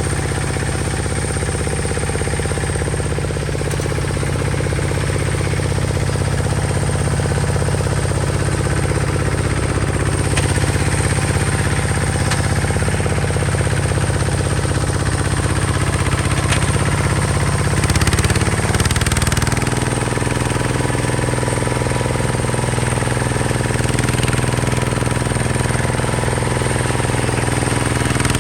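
Hinota HG Gold 155 DI tractor's diesel engine running steadily under way, its note shifting about two-thirds of the way through.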